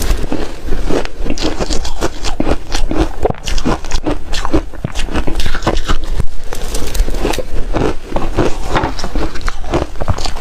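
Hard refrozen ice being bitten and chewed: a loud, unbroken run of sharp cracks and crunches.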